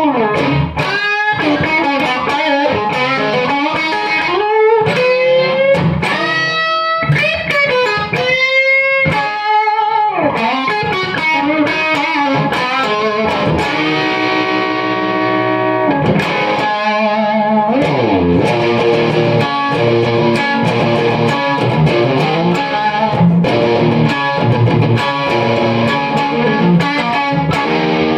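Electric guitar, an Ibanez Artcore with humbucker pickups, played through an Amp Maker P1800 Plexi-clone amplifier and an Eminence Lady Luck 12-inch speaker. For about the first ten seconds it plays single-note lead lines with string bends and vibrato, then switches to held chords, with a slide down the neck near the middle.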